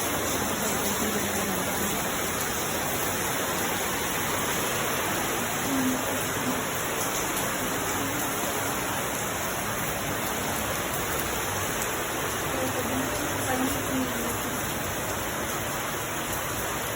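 Heavy rain pouring steadily, a dense, even hiss of water.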